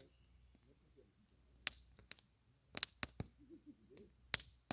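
Campfire crackling: scattered sharp pops of burning wood, a few in quick succession around the middle and the loudest one near the end.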